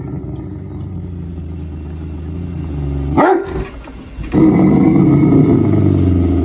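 A dog growling and vocalising over a steady low hum, with one sharp yelp-like call about three seconds in; the sound grows louder and harsher for the last two seconds.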